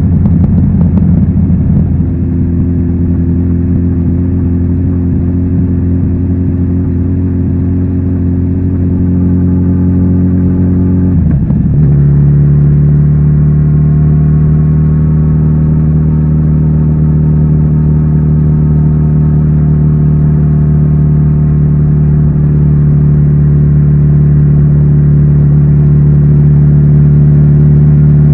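Kawasaki Z900RS inline-four engine running through its stock exhaust at a steady, even pitch. The note changes abruptly about eleven seconds in, as at a gear change, then holds and slowly rises in pitch as the bike accelerates gently.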